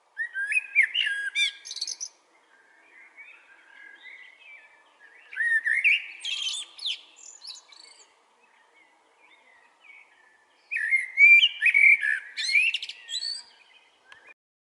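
A small bird singing in three loud bouts of quick, sliding chirps and whistles, with quieter twittering in between.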